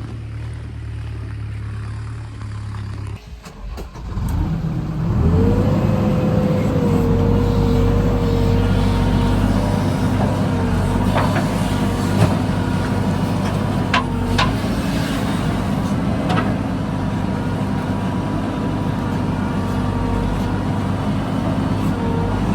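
Tractor diesel engine running at a low idle, dropping away briefly about three seconds in, then revving up and settling into a steady, faster run. A few sharp clicks or knocks sound over the engine later on.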